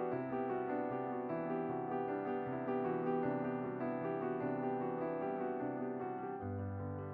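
Background piano music: a gentle melody over sustained chords, with the bass changing about six seconds in.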